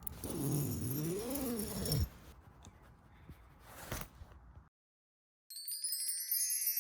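A short wavering, voice-like sound that slides up and down in pitch, then a cut to silence and a bright, glittering chime effect of rising high tones lasting under two seconds.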